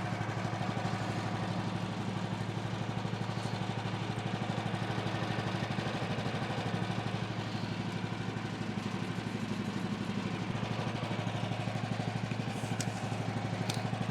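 Woodland Mills HM126 sawmill's small gas engine idling steadily with an even, fast-pulsing hum, with a couple of faint clicks near the end.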